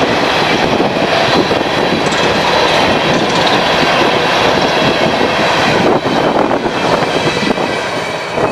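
A train's cars rolling past close by: a loud, steady rush of steel wheels on rail, easing slightly near the end.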